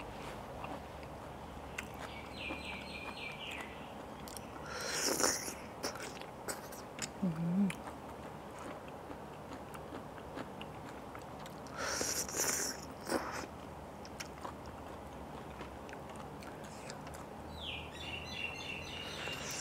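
Close-up mukbang eating sounds: chewing and biting on spicy papaya salad with blood cockles, with small wet clicks throughout. Two louder noisy bursts come about five and twelve seconds in.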